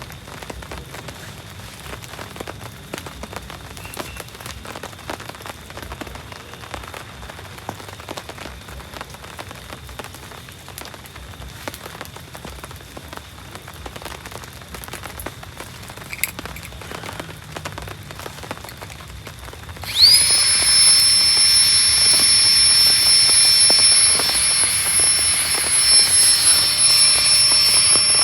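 Steady rain falling on the forest. About twenty seconds in, a loud, high-pitched drone starts abruptly, rising briefly in pitch and then holding steady; it is louder than the rain.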